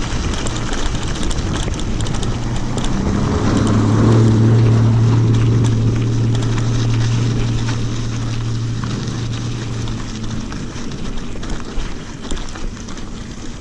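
A motor engine hums steadily, growing louder about three seconds in and fading out about ten seconds in, over wind noise on the microphone.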